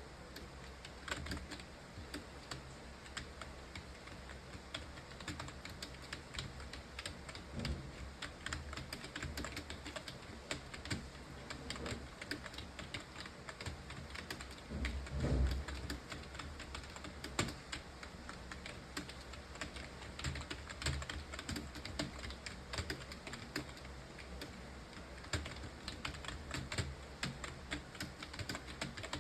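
Computer keyboard being typed on steadily and quickly, a dense irregular stream of key clicks, as in a timed typing test. About halfway through there is one louder low thump.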